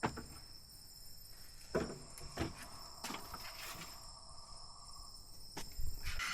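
Steady high chirring of insects, broken by about half a dozen separate knocks and clatters.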